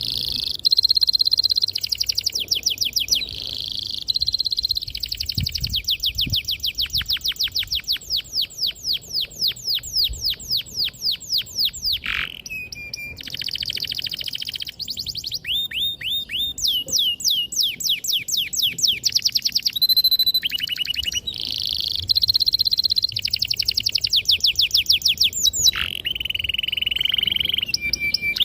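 Domestic canary in full song: a long, high-pitched, unbroken string of fast trills and rolls, each built from rapidly repeated sweeping notes, with a few short held notes between runs.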